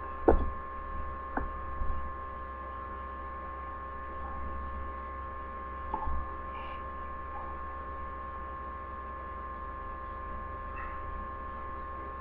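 A steady electrical hum made of several held tones, with a few small clicks or taps from handling near the start, about a second and a half in, and around six seconds in.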